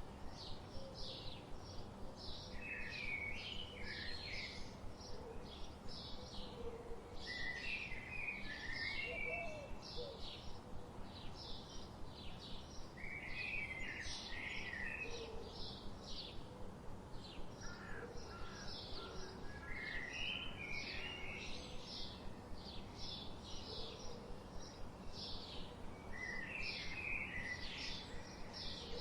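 Forest birdsong: a steady run of short high chirps, about two or three a second, and a short warbled song phrase repeating every five or six seconds.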